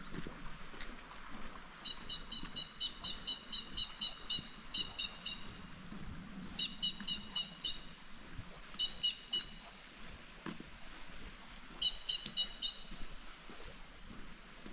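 A bird calling in quick runs of short, high chirps, about five a second, in four bouts with pauses between, the longest about three seconds; a faint steady hiss lies underneath.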